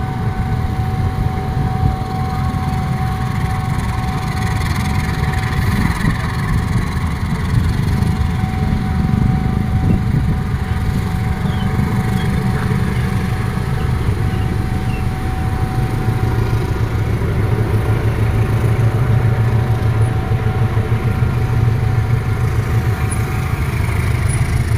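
Train at the station: a steady low mechanical rumble of rolling stock and engine, with a thin steady whine over it that stops near the end.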